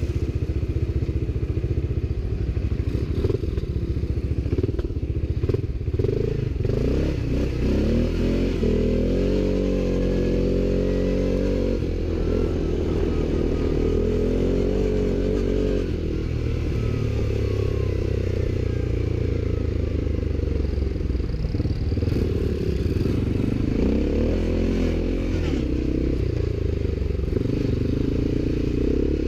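ATV engine running throughout, its pitch rising and falling as the throttle opens and closes, with some clatter.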